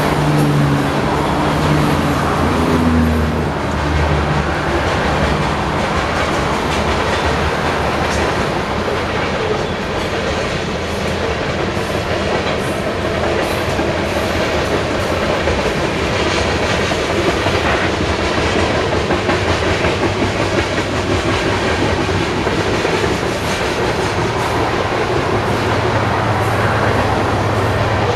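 Loaded coal hopper cars of a freight train rolling past, with a steady wheel-on-rail rumble and a clickety-clack of wheels over rail joints. Near the end, a low, steady diesel drone builds as a distributed-power BNSF locomotive approaches.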